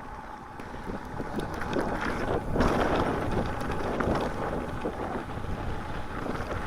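Mountain bike rolling along a trail: tyre noise and small rattles and clicks from the bike, with wind buffeting the microphone. It gets louder about two seconds in.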